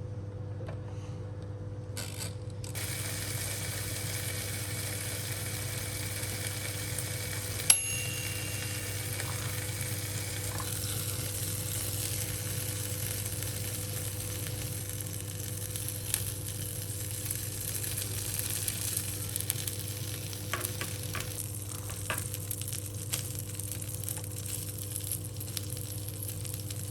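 Sausages sizzling as they roast: a steady hiss that sets in about three seconds in, over a steady low hum. A sharp click comes near eight seconds, and a few lighter clicks follow later.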